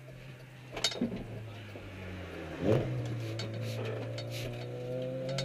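A car engine running, its note rising slowly, with a click about a second in and a sharp knock near three seconds in.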